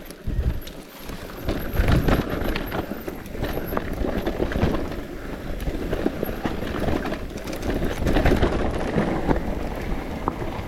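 Mountain bike bouncing down a rough dirt and rock trail: tyre rumble with rapid irregular knocks and rattles from the bike, and wind on the microphone.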